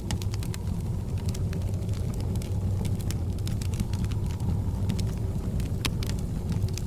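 Wood fire crackling with irregular sharp pops over a steady low rumble, one louder pop near the end.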